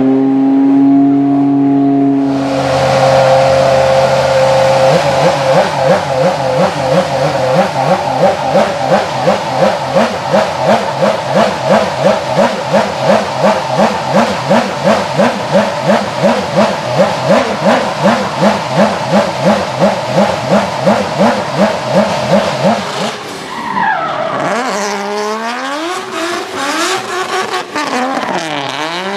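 Race car drifting with its tyres squealing and the engine held high. The sound swells and fades about twice a second as the car slides. Around twenty-three seconds in the tyre noise drops away and the engine is revved up and down in quick blips.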